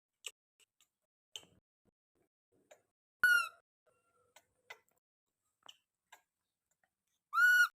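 Baby monkey giving two short high-pitched squeaking calls, one about three seconds in and a longer rising-and-falling one near the end, with faint scattered clicks and taps in between.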